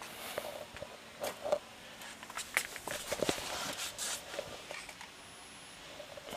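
Scattered light clicks, taps and rustles of hands handling things, irregular and with no steady sound beneath them.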